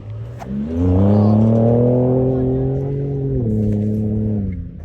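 Ford Raptor pickup's engine revving: it climbs quickly about half a second in, holds at high revs for a couple of seconds, then drops back in a step and dies away near the end.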